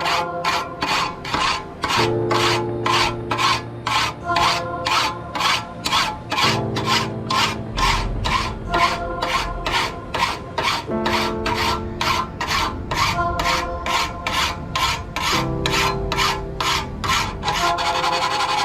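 Rhythmic hand scraping strokes, about two and a half a second, typical of rubbing or filing rust off a metal blade by hand. The strokes stop shortly before the end, over soft background music with slow chord changes.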